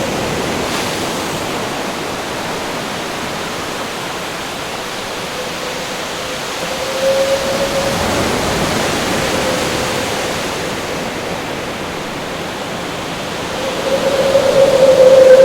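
Steady rushing of ocean waves and wind, with a howling wind tone that swells about halfway through and rises louder again near the end.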